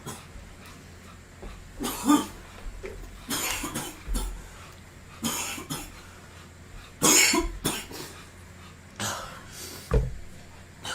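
A man coughing hard in about six separate fits a second or two apart, trying to clear cinnamon powder that has clogged his throat.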